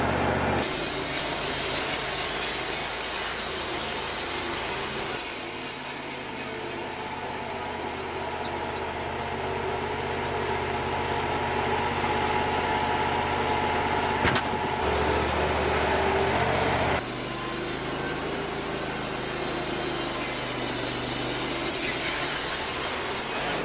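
Bandsaw sawmill running, its engine droning steadily while the band blade cuts cedar boards. The sound changes abruptly several times, with a single sharp click about fourteen seconds in.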